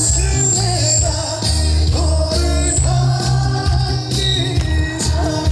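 Trot song performed live through the stage PA: a male voice singing over backing music with a steady bass beat.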